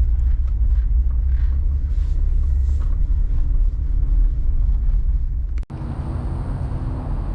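Car driving, a steady low road-and-engine rumble heard from inside the cabin. It cuts off abruptly about five and a half seconds in and resumes with a faint high whine on top.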